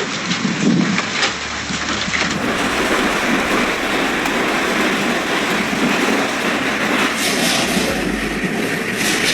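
Hailstorm: hail and heavy rain pounding down in a loud, dense, steady clatter, with sharp single hits standing out in the first couple of seconds.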